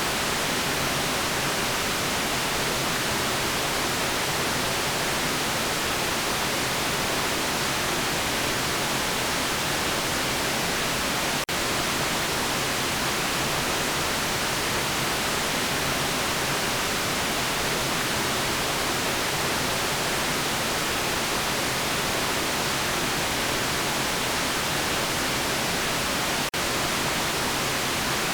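Steady, even white noise, a continuous hiss with its energy strongest in the upper range. It drops out for an instant twice, about 11 and 26 seconds in.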